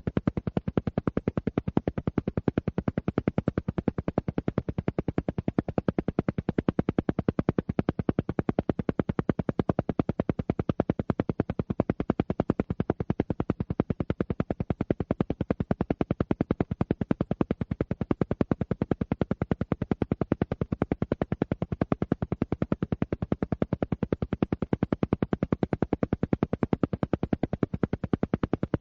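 An alpha-wave entrainment track: a steady train of rapid, evenly spaced pulses, many a second, with the weight in the low range and the same unchanging rhythm throughout.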